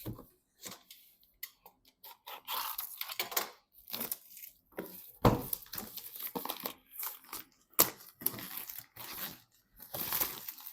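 Computer-part packaging being handled and torn open: plastic and paper crinkling and tearing in irregular bursts, with two sharp clicks about five and eight seconds in.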